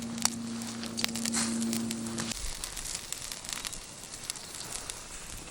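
Wood fire crackling and popping in a campfire pit, with scattered sharp snaps. A steady low hum runs under it and stops abruptly about two seconds in.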